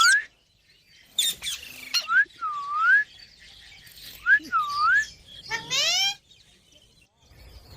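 Pet green parrot calling: a harsh screech, then two pairs of short whistled notes that dip and swoop back up in pitch, then a rising call near the end.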